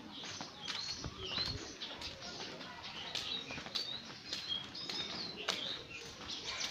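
Small birds chirping: many quick, short high calls overlapping one another, with scattered sharp clicks among them.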